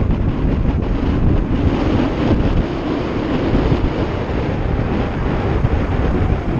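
Wind buffeting the microphone: a steady, loud rush with a heavy low rumble and no distinct events.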